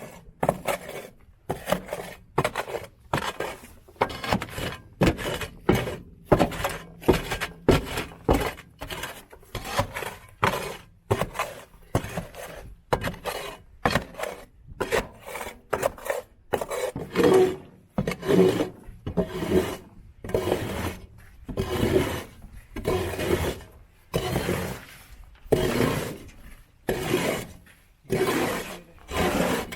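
A hand scraper blade scraping a truck bed surface in quick repeated strokes, about two a second. The strokes get heavier in the second half.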